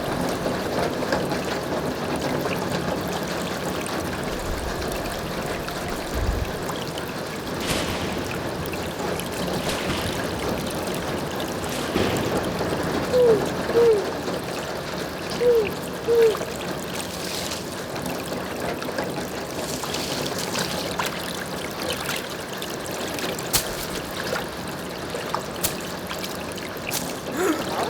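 Foley recreation of a forest stream: steady trickling, running water with scattered small clicks and snaps. About halfway through come four short pitched calls in two pairs.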